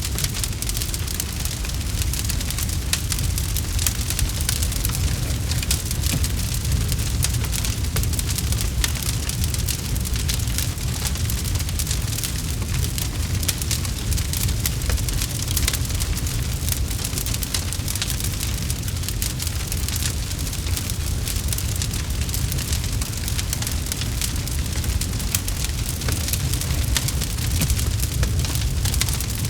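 Campfire crackling: a dense, irregular run of small pops and snaps over a steady low rumble.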